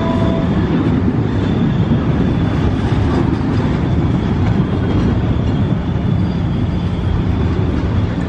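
Passenger train coaches rolling past at close range: a steady, loud rumble of steel wheels on the rails.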